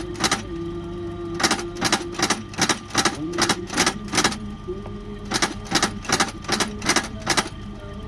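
Sharp knocks from shoe repair work, about two to three a second in runs with short pauses, over a faint steady hum.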